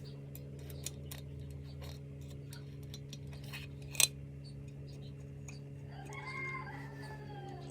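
Small clicks and taps of air-rifle parts being handled during assembly, with one sharper click about four seconds in, over a steady low hum. Near the end a faint pitched call slides slightly downward.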